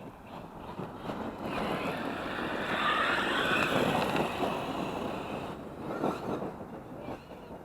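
Brushless electric RC monster truck running over dirt: motor whine and tyre noise build up, are loudest a few seconds in, then fade away.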